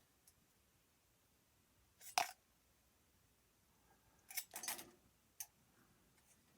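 A few small, sharp metal clicks from fine-tipped photo-etch bending pliers handling a tiny photo-etched part: one about two seconds in, then a short cluster a little after four seconds.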